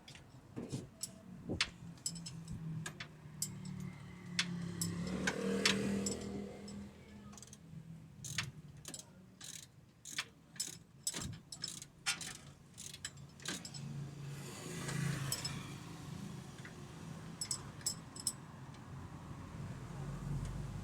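Light metallic clicks, clinks and knocks of hand tools and parts being handled during under-chassis repair work, irregularly spaced, over a low steady hum.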